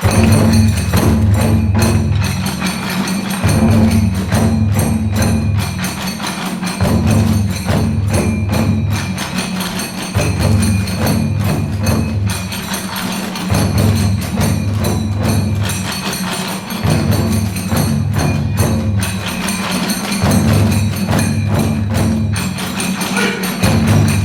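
Kagura festival music (hayashi): big and small taiko drums with tebyoshi hand cymbals clashing in a fast, continuous rhythm. The drum pattern repeats about every three seconds.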